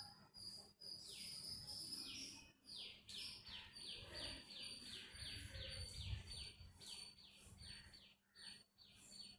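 Birds chirping faintly: a long run of short, falling chirps, about three a second, over a thin, steady high tone.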